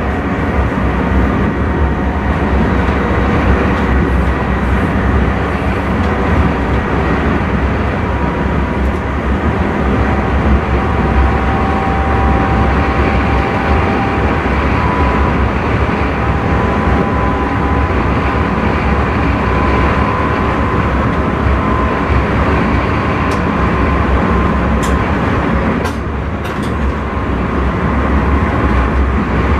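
Intercity train running at speed, heard from inside the driver's cab: a steady rumble of wheels and running gear with a faint, even whine over it. A few light clicks come near the end.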